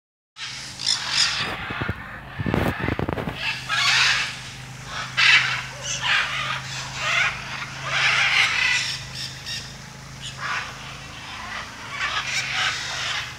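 Captive birds in a large aviary calling with repeated loud, harsh squawks, one after another every second or so, with a brief low rattle about two seconds in, over a steady low hum.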